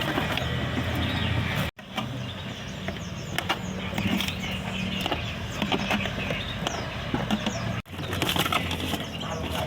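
Caged songbirds making short, repeated chirps over a steady low hum of traffic, with scattered clicks. The sound drops out briefly twice.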